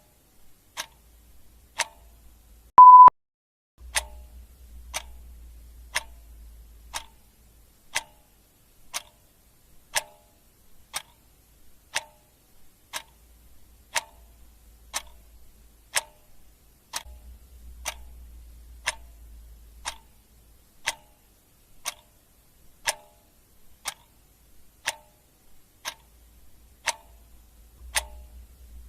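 Clock ticking steadily about once a second, with one short, high beep about three seconds in, louder than the ticks.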